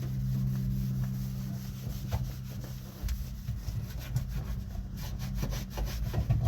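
Cloth rubbing wax cleaner over the truck's interior surfaces by hand, in quick back-and-forth scrubbing strokes that come thick and fast from about three seconds in. A steady low hum sounds under the first two seconds.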